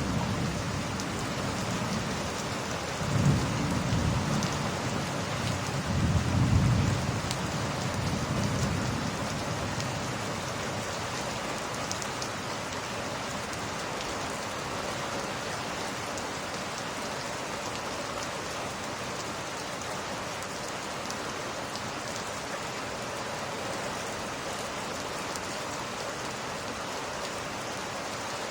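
Steady heavy rain with rolling thunder: a few low rumbles swell and fade over the first several seconds, then the rain carries on alone.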